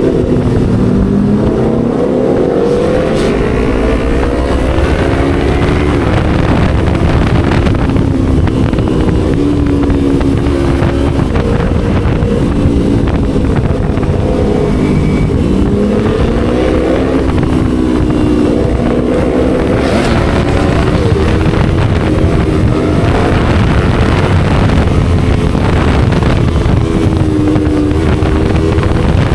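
Motorcycle engine through a loud aftermarket racing exhaust while riding, its pitch rising and dropping several times as the rider accelerates and shifts, with wind noise on the microphone.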